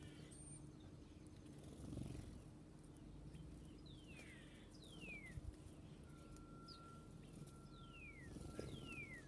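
A songbird whistling four clear notes, each falling steeply in pitch, in two pairs about three seconds apart. They sit over a faint low steady hum.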